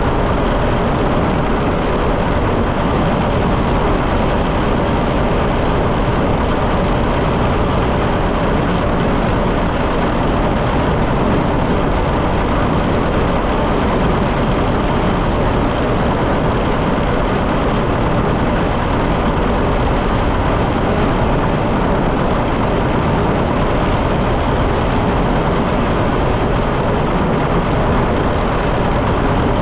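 John Deere 730 two-cylinder tractor engine running steadily under way on the road.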